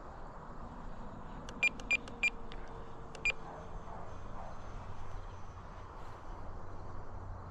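RC transmitter beeping as the elevator trim is stepped: three short, high beeps about a third of a second apart, then one more about a second later.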